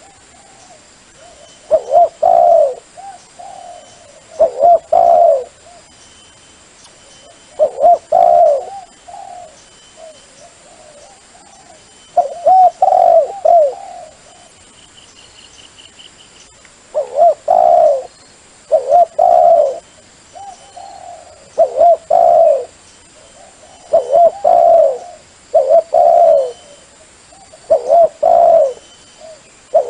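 Dove cooing: a recorded call played to lure wild doves, repeating low coo phrases of about a second each, every two to three seconds.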